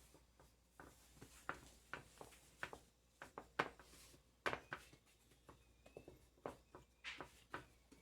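Scattered soft taps and clicks, irregular and unevenly spaced, of hands working dough on a work surface as it is folded over the filling and closed.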